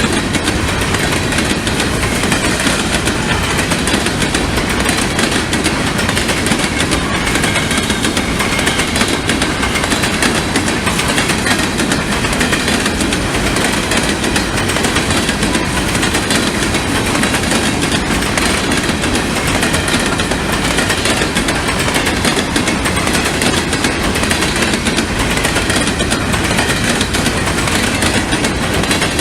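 Freight cars of a grain train rolling past at speed, a steady loud clatter of steel wheels on the rails.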